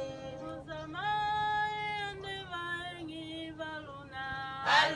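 Voices singing a slow farewell song, unaccompanied, holding long notes that step in pitch.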